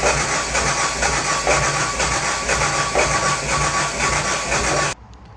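Kubota V3300 four-cylinder diesel being cranked on the starter motor: a steady starter whine with an even rhythmic pulse from the compression strokes, stopping abruptly near the end. It cranks without catching; the owner finds the injection pump is sending diesel to only one injector while the other lines stay dry.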